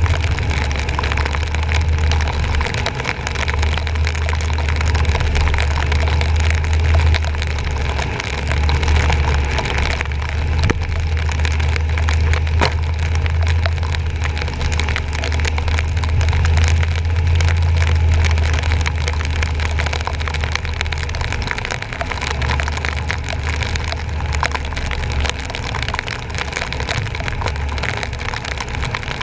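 Truck driving through flooded streets in heavy rain, heard from a bumper-mounted GoPro: a steady low drone of engine and tyres that dips a few times, under a constant hiss of water and rain with many small sharp ticks of drops striking the camera.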